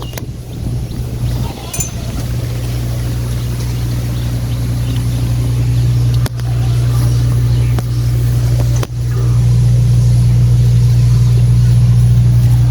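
Engine of a large road-construction machine running steadily with a deep hum, dipping briefly twice and getting a little louder over the last few seconds.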